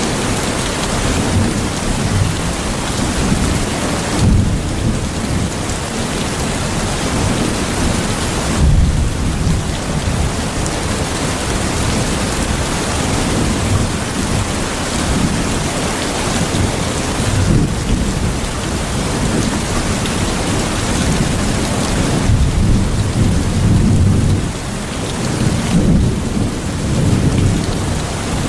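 Steady heavy rain falling, with low thunder rumbling on and off beneath it.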